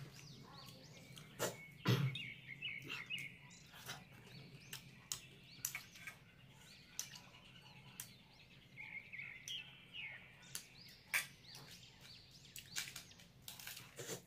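Chewing and mouth sounds of someone eating fried fishballs, with short sharp clicks and smacks scattered throughout. Birds chirp in the background about two seconds in and again around nine to ten seconds.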